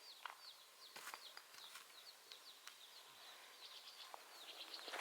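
Small birds chirping: a steady run of short, high chirps, several a second, with a few faint clicks among them.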